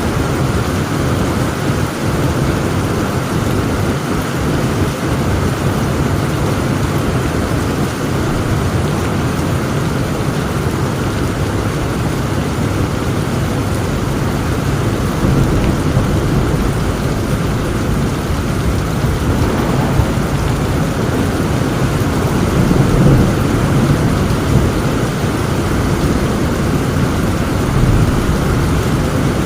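Heavy rain falling steadily with low, rolling thunder that swells about two-thirds of the way through.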